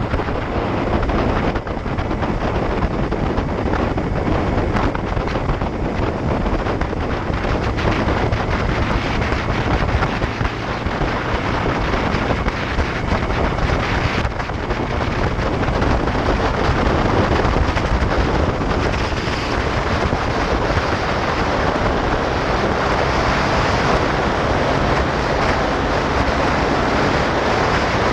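Wind noise on the microphone from riding a motorcycle at speed, a loud, steady rush, with the motorcycle's engine running underneath.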